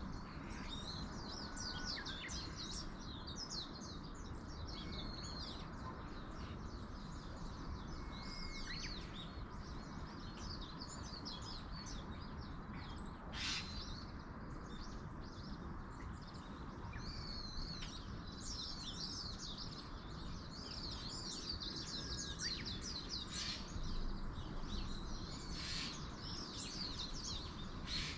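Many small birds chirping and twittering on and off throughout, with a few brief whistled notes, over a steady low rush of wind in the trees.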